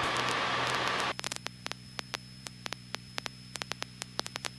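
Radio hiss for about a second that cuts off suddenly, like the tail of a transmission. It leaves a steady low hum with irregular crackling clicks of static on the aircraft's radio and intercom audio feed.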